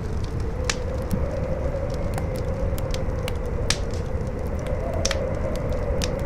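Campfire crackling with irregular sharp pops, over strong howling wind: a low rumble with a wavering, whistling howl.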